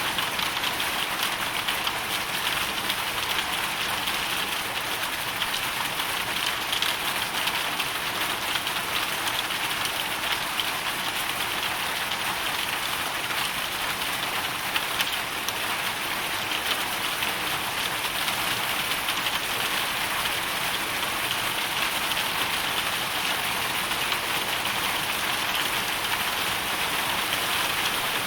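Hailstorm: hail and rain falling steadily on a hard surface, a dense, even rush of countless small impacts without a break.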